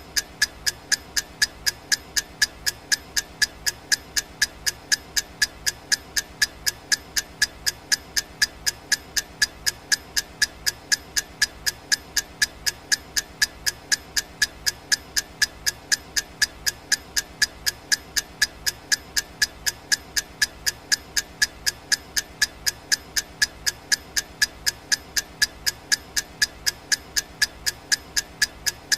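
Clock ticking sound effect for a countdown timer: sharp, even ticks at about two a second, with no change.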